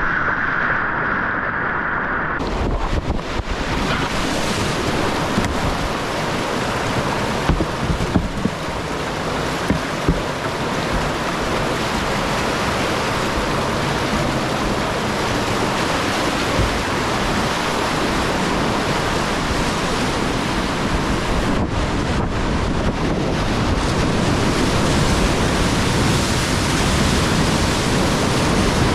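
Steady rush of whitewater on a river rapid, with wind buffeting the microphone. The sound changes abruptly about two seconds in, from a duller, narrower rush to the full roar. A few sharp knocks come around eight to ten seconds in.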